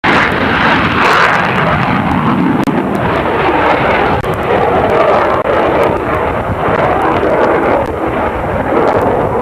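Jet aircraft engine roar, a loud, steady rushing noise on a camcorder microphone, with two very brief dropouts.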